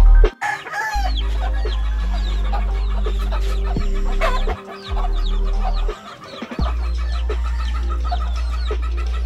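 Gamefowl chickens clucking, with a rooster crowing, over steady background music with a low bass that cuts out briefly a few times.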